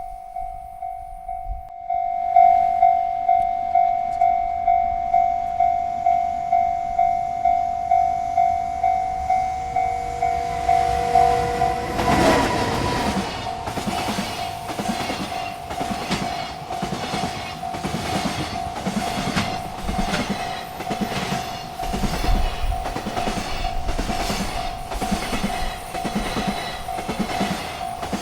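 Railroad crossing bell ringing steadily, about two strikes a second. About twelve seconds in, a freight train arrives and its wheels clatter rhythmically over the rail joints while the bell keeps ringing.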